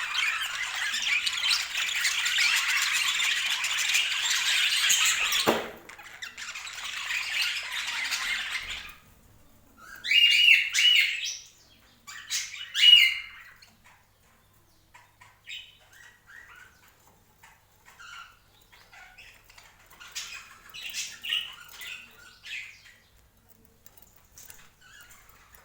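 Budgerigars chattering and warbling densely together, breaking off after about nine seconds into a few loud squawks, then only scattered soft chirps.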